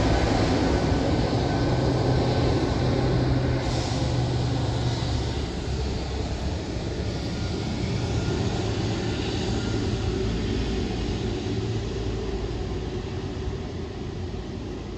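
Jet engine noise of an Airbus A330 airliner, a steady low rumble and rush that fades gradually as the aircraft draws away.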